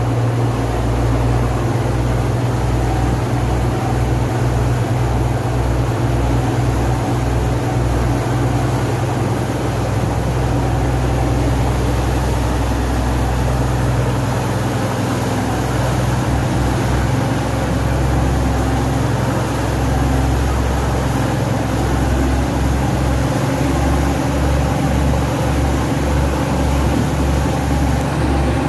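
Boat engine running steadily, a loud low drone with a steady hiss over it.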